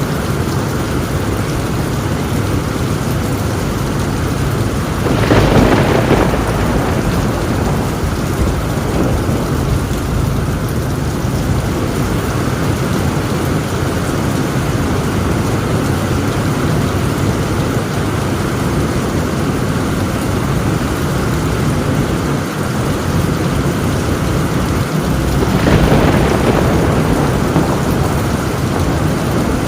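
Heavy rain drumming steadily on a tin roof, with two rolls of thunder: one about five seconds in and another near the end.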